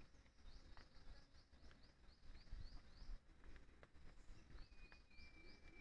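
Faint forest ambience with birds calling: a short high chirp repeated about two to three times a second, and one long level whistle starting near the end.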